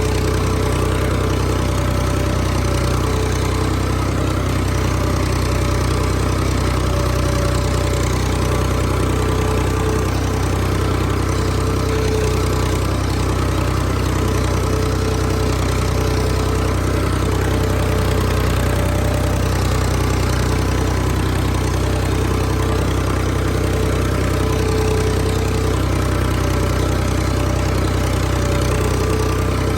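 Engine of a field-scraping machine running steadily at a constant speed, with no change in pitch or level.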